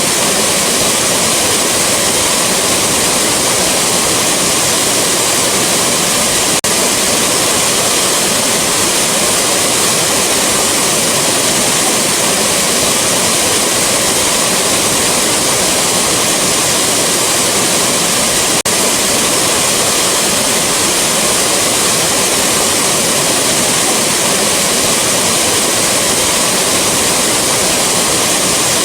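Rushing waterfall: a steady, loud wash of falling water with no change in strength, broken by two momentary dips in level about twelve seconds apart.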